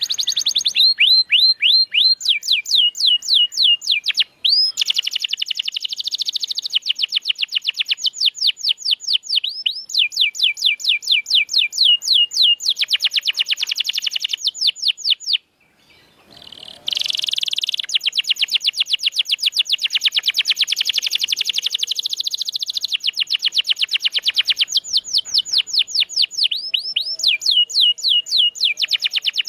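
Domestic canary singing a long song of rapid trills: fast series of repeated high notes that change from one tour to the next, with a brief pause about halfway through.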